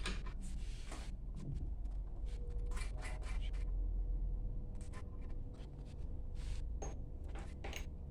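Irregular small clicks, taps and scrapes of metal pump parts and tools being handled during disassembly of a booster pump, over a steady low hum.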